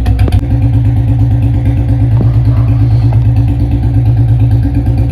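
Royal Enfield Bullet's single-cylinder engine idling steadily with an even pulsing beat through a long bottle silencer, warming up after a cold start with its revs set high.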